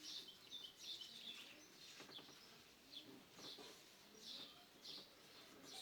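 Faint, scattered bird chirps over a quiet background.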